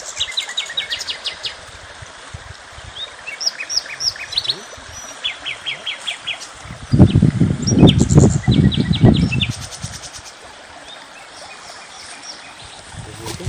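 Small songbirds singing, with quick trills of rapidly repeated chirps and short rising notes. Between about seven and nine and a half seconds in, a louder low rumbling noise comes in and then dies away.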